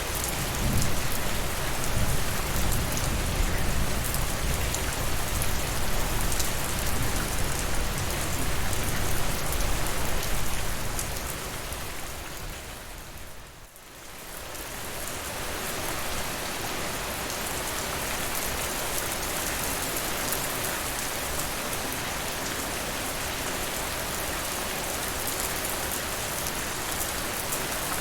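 Steady rain falling on surfaces, an even hiss of drops. It is heavier, with a deep low rumble underneath, for the first ten seconds or so, fades down to a brief lull about halfway, then comes back as steady rain.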